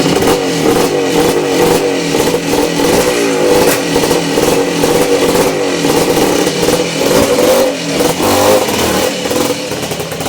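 An engine running, its speed rising and falling as it is revved.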